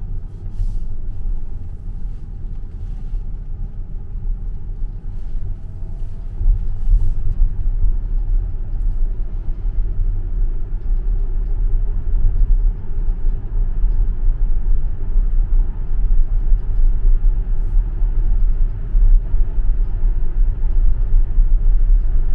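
Low tyre and road rumble heard inside the cabin of a Tesla electric car driving through the Loop tunnel, with no engine note. It grows louder about a third of the way in and again midway as the car picks up speed.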